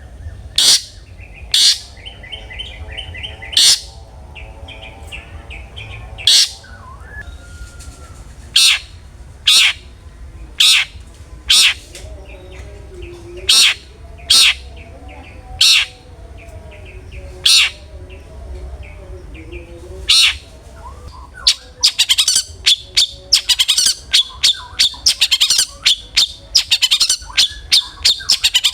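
Long-tailed shrike (cendet) singing loud, sharp single calls about once a second, then from about two-thirds of the way in breaking into a rapid, dense chatter of calls.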